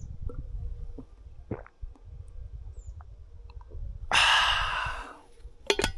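Mountain bike riding as heard from a chest-mounted camera: a low rumble with scattered clicks and knocks from the bike and trail. About four seconds in there is a loud rushing hiss lasting about a second, and a few sharp knocks come near the end.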